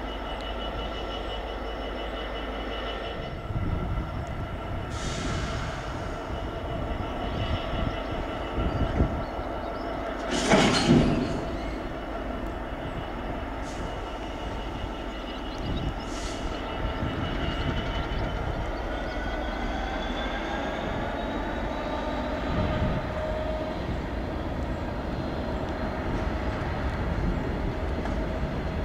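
Class 66 diesel-electric locomotive, with its two-stroke V12 engine, running under power as it hauls a rake of empty intermodal flat wagons slowly away. The engine drones steadily with a held whine, and the empty flats knock and clank over the rail joints, with one loud bang about ten seconds in. A whine rises slowly in pitch through the second half as the train picks up speed.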